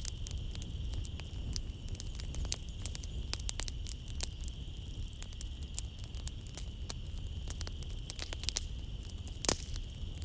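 Wood fire in a fireplace crackling, with frequent sharp pops over a low steady rumble of the flames; one pop stands out about nine seconds in. A steady high trill of night insects runs behind it.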